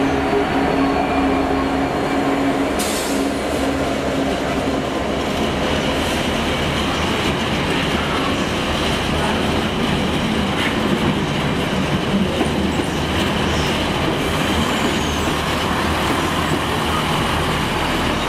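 Freightliner Class 66 diesel locomotive's engine running as it passes close by, its tone fading within the first few seconds. It is followed by a long train of empty container flat wagons rolling steadily past, their wheels running on the rails.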